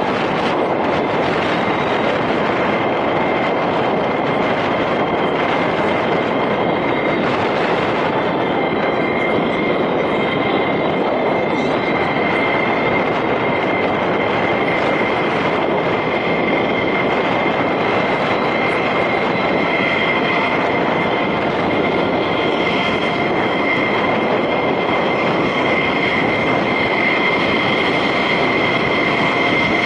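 Jet engine noise: a loud, steady rumble with a continuous high-pitched whine.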